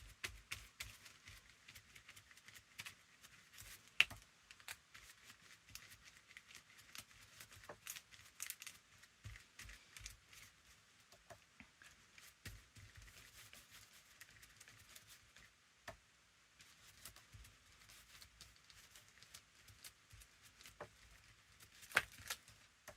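Quiet handling of paper and crafting materials: scattered light taps, clicks and soft paper rustles, with a sharper tap about four seconds in and another near the end.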